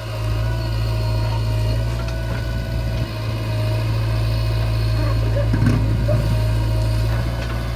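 Backhoe loader's diesel engine running steadily at work, with a few light knocks about three-quarters of the way through.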